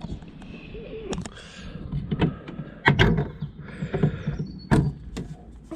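Saab 9-5 interior door trim piece being pushed and slotted into place by hand: several sharp knocks and clicks, with rubbing and scraping of the trim between them.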